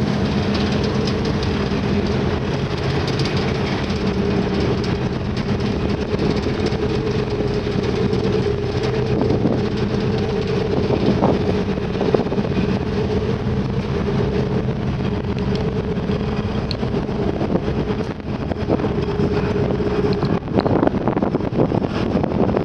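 Steady drone of an icebreaker under way: an engine hum over rushing wind and water noise, with a few knocks near the end.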